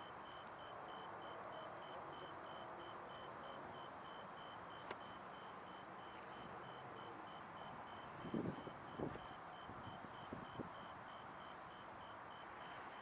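Faint, rapid high-pitched electronic beeping, about three even beeps a second, over a low steady background rumble, with a few dull thumps a little past the middle.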